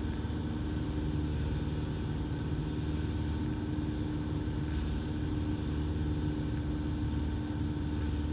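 Cessna 172 Skyhawk's engine and propeller drone heard inside the cabin in flight, a steady, unchanging hum with a constant low tone.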